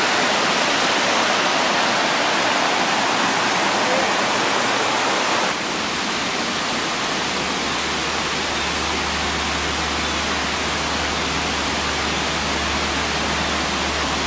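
Steady rush of fast-flowing creek water. About five seconds in, the sound changes abruptly: it becomes slightly quieter and a steady low hum joins it.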